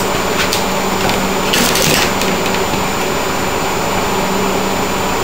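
Steady hum of a running motor with a rushing noise, broken by a few brief clinks and scrapes about half a second and two seconds in.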